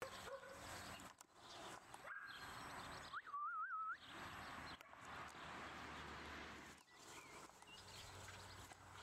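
Outdoor garden ambience with a steady hiss and a short wavering bird call about three seconds in.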